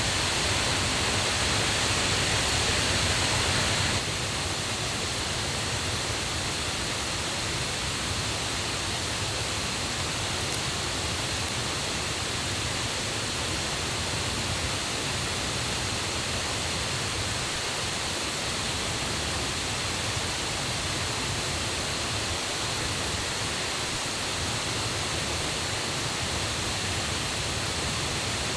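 Rushing water of a waterfall and a mountain river running high after rain, a steady, loud rush that drops slightly about four seconds in.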